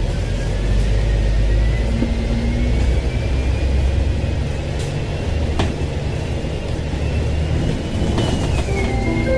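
Dennis double-decker bus running under way, heard from inside the cabin: a steady low engine rumble with a thin driveline whine that climbs slowly in pitch as the bus gathers speed, then drops about a second before the end at a gear change. A single click sounds about halfway through.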